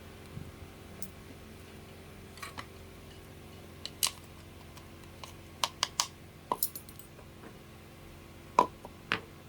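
Irregular light clicks and knocks of small hard parts and tools being handled, about a dozen, with one louder knock near the end, over a steady low hum.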